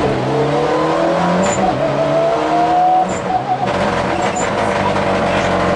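Mitsubishi Lancer rally car's engine under hard acceleration, heard from inside the cabin, climbing in pitch through each gear, with upshifts about a second and a half and three seconds in and rising again toward the end.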